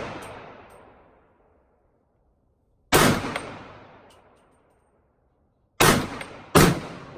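AR-15 rifle fired at a target in single shots: one about three seconds in, then two close together near the end, each a sharp crack with a long fading tail. The tail of a shot fired just before still rings at the start.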